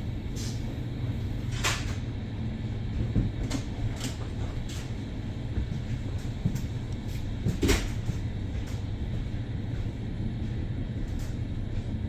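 Steady low rumble of a moving train heard from inside the carriage, with irregular sharp clicks and knocks, the loudest about one and a half and seven and a half seconds in.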